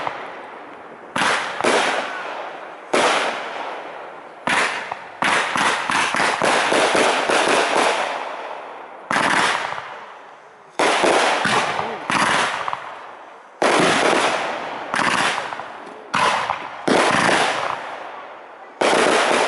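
Aerial firework shells bursting, a sharp bang every second or two, each trailing off in crackle and echo, with a quick run of overlapping bursts in the middle.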